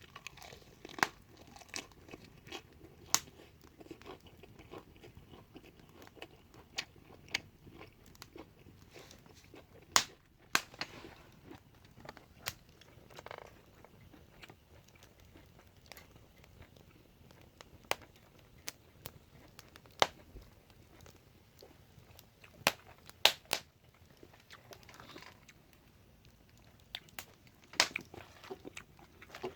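A person eating, chewing, with scattered sharp clicks and ticks at irregular intervals.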